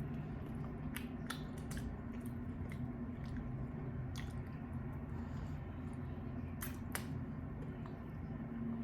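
Close-up mouth sounds of chewing chicken wings: wet squishy chewing, with a handful of sharp clicks scattered through, over a steady low hum.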